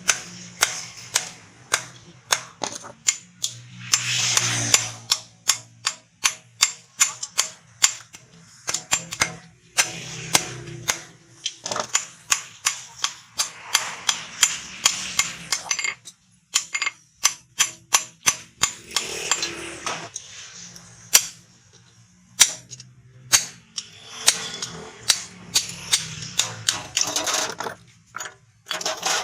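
Hand hammer striking hot steel rebar on an anvil in long runs of sharp metallic blows, about two to three a second, with stretches of rushing noise between some runs.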